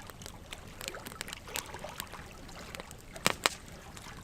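Burning logs crackling, with irregular small pops over a faint hiss and two sharper, louder pops close together near the end.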